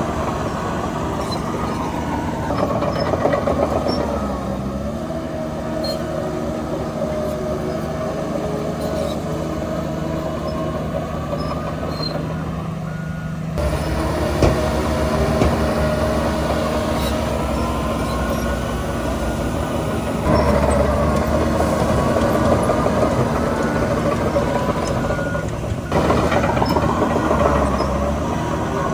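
Diesel engines of heavy earthmoving machinery running under load, their pitch rising and falling as the machines work. The sound changes abruptly about halfway through and again near the end.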